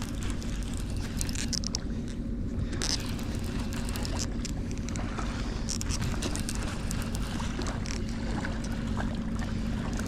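A steady low engine drone with a constant hum, with scattered faint clicks over it.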